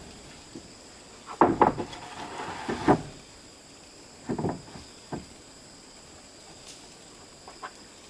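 A few hard wooden knocks and a short scrape, like boards being handled and set down: two close knocks, a scrape ending in a louder knock, then two more knocks, fading to a few faint ticks.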